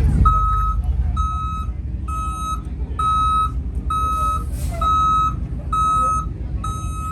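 Bus's reversing alarm beeping steadily, about one beep a second, as it backs up to manoeuvre out of a tight spot, over a low engine rumble, with a short hiss about four seconds in.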